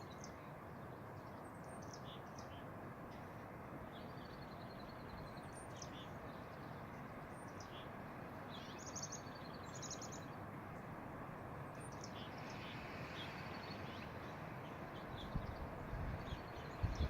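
Steady wind after a blizzard, with small birds chirping repeatedly over it. Near the end, gusts knock against the microphone in a few low thumps.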